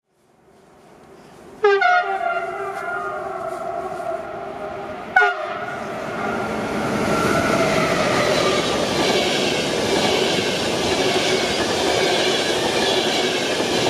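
Horn of a České dráhy class 193 Vectron electric locomotive sounding twice, about a second and a half in and again about five seconds in, then the EuroCity train running past with a rushing noise of wheels on rail that grows louder.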